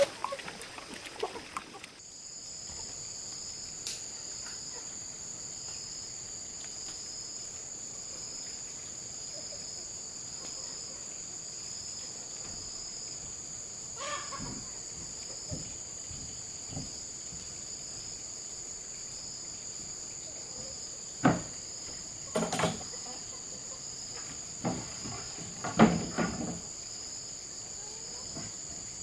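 Steady, high-pitched insect chorus in two even tones, with a few sharp knocks and taps from work in the second half.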